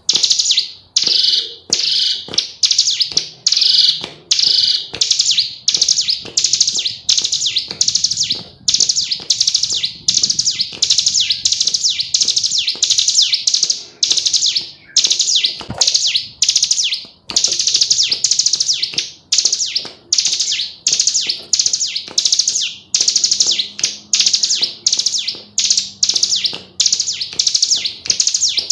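Female ciblek gunung (a prinia) calling nonstop: short, high, rapid chattering phrases repeated about twice a second without a break.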